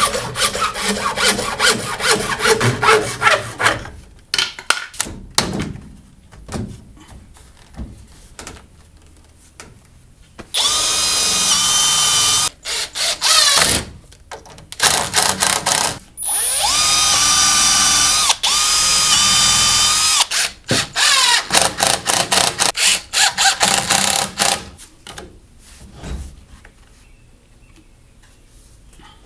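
Cordless drill running in about four short bursts, each spinning up to a steady whine, with stretches of rapid clicking before and after.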